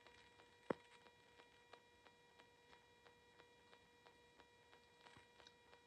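Near silence: a faint steady electronic whine with soft ticks about three a second, and one sharper click about 0.7 s in.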